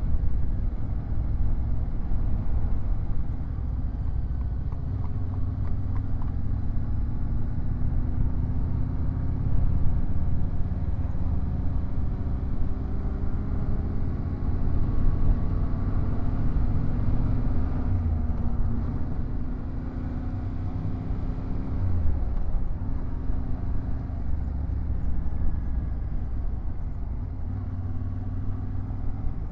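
Yamaha Ténéré 700 motorcycle's parallel-twin engine running while riding, under a steady rumble of wind and road noise; the engine note drifts gently up and down with speed.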